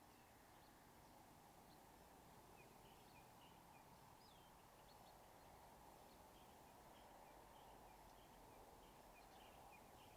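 Faint outdoor ambience: a low, steady hiss with many small, quick bird chirps scattered throughout.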